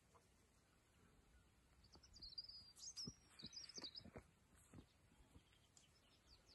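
A bird singing faintly: a short run of high chirps about two to four seconds in. A few soft low knocks come at around the same time.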